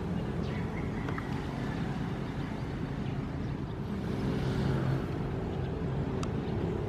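Ocean waves: a steady low rumble of surf, with one wave swelling and washing through about four to five seconds in.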